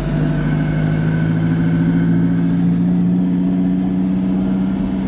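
Alfa Romeo 4C's turbocharged four-cylinder engine running at low speed, heard from inside the cabin. Its note rises slightly over the first couple of seconds, then holds steady.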